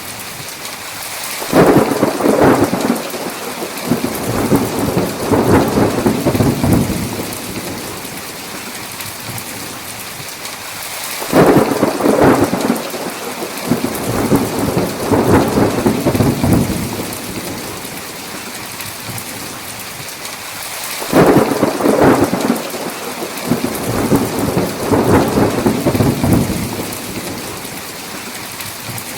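Thunderstorm: steady heavy rain, with three rolls of thunder about ten seconds apart. Each starts suddenly and rumbles for about five seconds before dying back under the rain.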